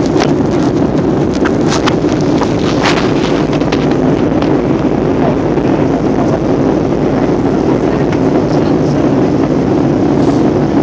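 Airbus A320 in flight, its engines and airflow making a steady, loud rushing roar, with a few light clicks in the first few seconds.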